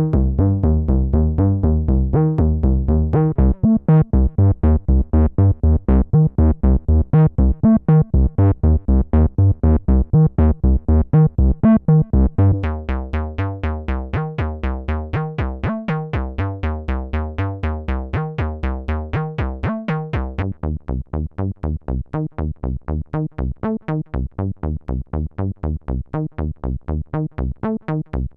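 Roland SE-02 analogue monophonic synthesizer playing a fast sequenced bass line of short repeated notes, about five a second. The patch changes about three times, each time giving the line a different tone and loudness as the next factory preset comes up.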